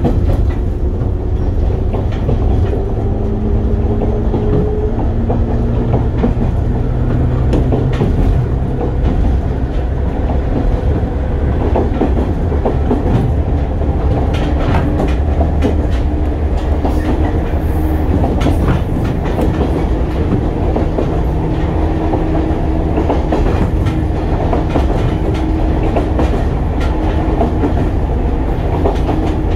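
Interior running sound of a JR West 103 series electric train: a steady rumble of steel wheels on rail with clacks over the rail joints. A motor whine rises in pitch over the first few seconds, and a steadier whine carries on later.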